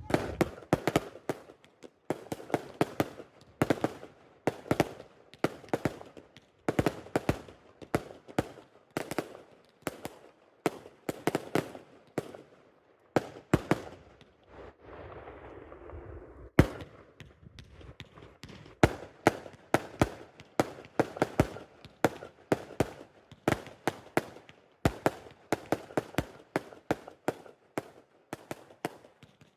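Fireworks going off in a rapid, irregular string of sharp bangs and cracks, several a second, with a short lull of hiss about halfway through followed by a single loud bang before the cracking resumes.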